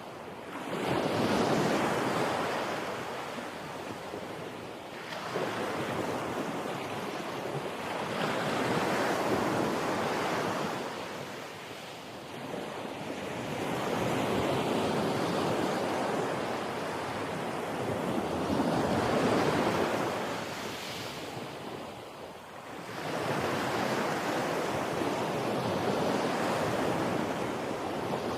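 Sea waves washing in, a rushing surf that swells and fades about every four to five seconds.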